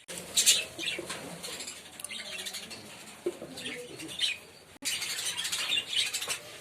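Caged aviary birds such as lovebirds and finches chirping over a busy rustle of wing flapping.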